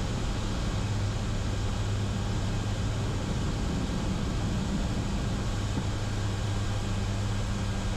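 The C-130J's four Rolls-Royce AE 2100 turboprops running at takeoff power in the initial climb: a steady drone with a constant low hum.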